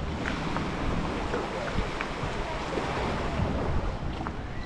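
Beach ambience: wind buffeting the microphone over the steady wash of small waves.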